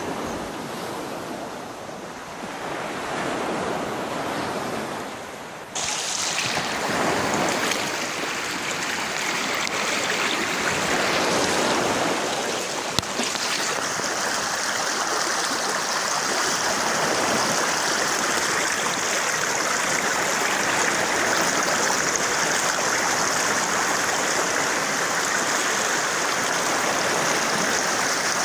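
Steady rush of flowing water, an even hiss with no tones. About six seconds in it jumps abruptly to a louder, brighter rush, and it stays steady after that.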